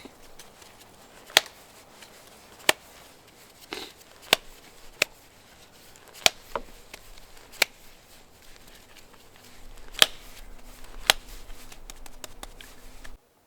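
Chopping: about ten sharp strikes, irregularly spaced roughly a second apart, then a sudden cut-off near the end.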